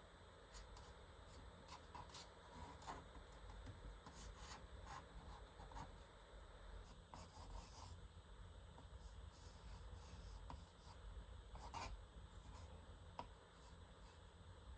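Faint scratching of a drawing tool on paper in quick, short, irregular strokes as gesture lines are sketched.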